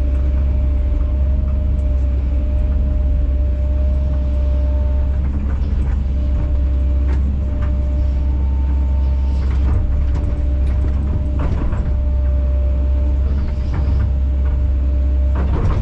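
Kobelco SK210 excavator's diesel engine running steadily under work, with a steady whine over the drone. Several short knocks come in the middle of the stretch.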